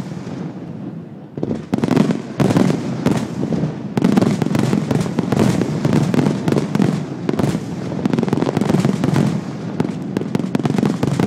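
Fireworks finale: aerial shells bursting in loud, overlapping bangs and crackles. They come a few at a time at first, then in a dense, almost continuous barrage from about four seconds in.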